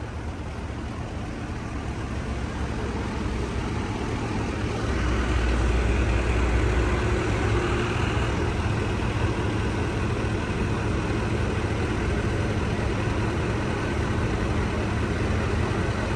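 A vehicle engine idling steadily, as a low rumble that grows louder over the first five seconds or so and then holds even.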